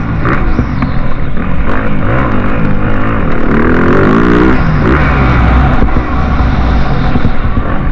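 Motocross bike engines running loud on the track, their pitch rising and falling as they rev up and back off.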